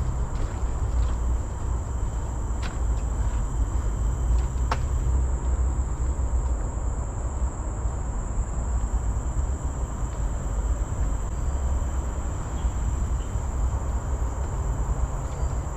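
Steady, high-pitched drone of insects over a constant low rumble, with a few faint clicks, the sharpest about five seconds in.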